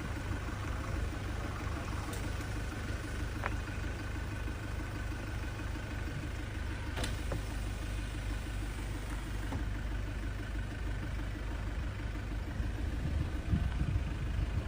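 A vehicle engine idling steadily, with a low, evenly pulsing rumble and a few faint clicks.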